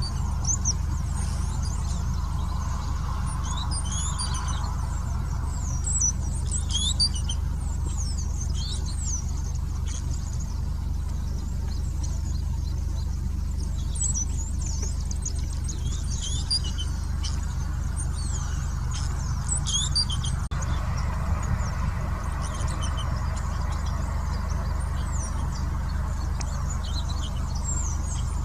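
Giant cowbird calling: thin, squeaky, bending high whistles and chirps in bouts every few seconds, over a steady low rumble.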